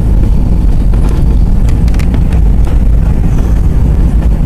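Steady low rumble of an Airbus A320's engines and airflow heard from inside the cabin during descent, with a few faint clicks or rattles between about one and three seconds in.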